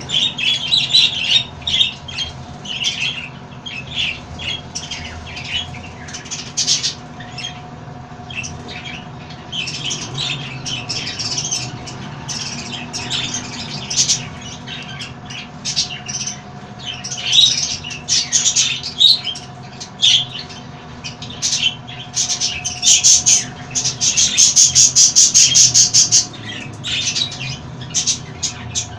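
Parrots squawking and chirping in many short, sharp calls, with a fast run of rapidly repeated calls a few seconds before the end.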